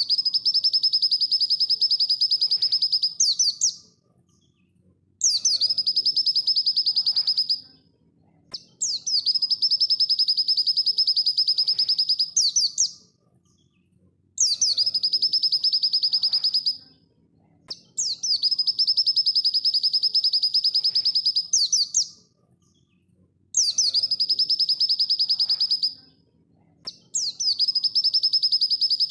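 Pleci (white-eye) singing a fast, high, rapid trilled song in bouts of about three seconds, each ending in a few quick sweeping notes, repeated about seven times with short pauses between.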